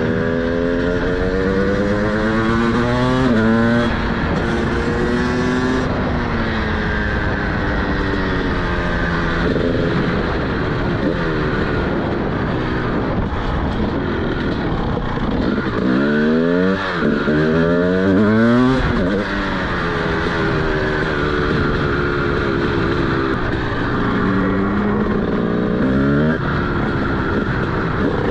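TM SMR 300 two-stroke single with a DBR exhaust, accelerating up through the gears on the road. The revs climb and drop back at each shift, with a quick series of hard rev-ups about two-thirds of the way through.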